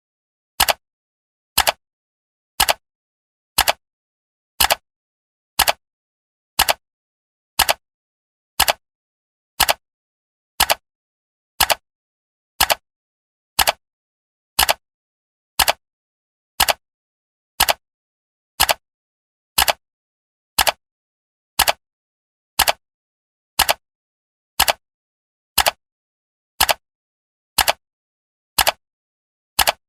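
Clock-style ticking sound effect of a countdown timer: single sharp ticks, evenly paced at one per second, with silence between them.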